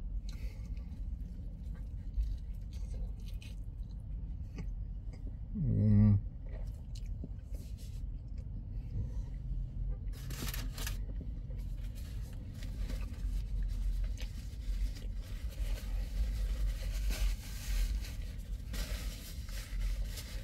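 A man chewing a crunchy breaded fried-chicken sandwich, with crackles of the white paper wrapper in his hands and a brief hummed "mm" about six seconds in. A steady low rumble of the car cabin runs underneath.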